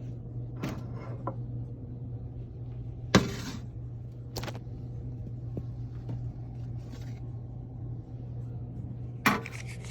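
A few knocks and clicks over a steady low hum, the loudest knock about three seconds in and another near the end.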